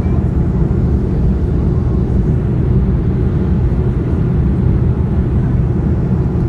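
Steady low rumble of a Boeing 787-9's engines and airflow, heard from inside the passenger cabin during the climb after takeoff.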